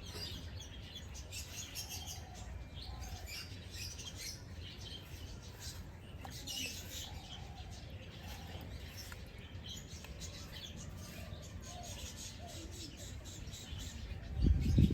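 Small birds chirping and twittering, many short high calls overlapping, over a low steady background rumble. Right at the end a loud low rushing burst cuts in.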